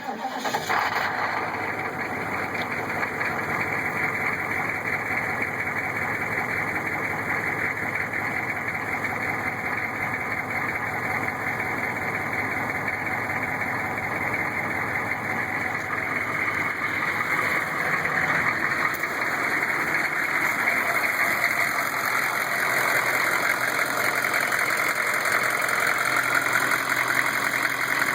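Freshly rebuilt Chevy 6.5-litre diesel V8 running steadily at idle with a recurring internal knock at about half crank speed, which the owner suspects comes from the valvetrain, with oil flow to the rocker arms getting weaker toward the rear of the engine.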